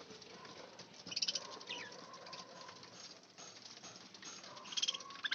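Budgerigars chirping and chattering in two short bursts, about a second in and again near the end, over faint background bird sounds.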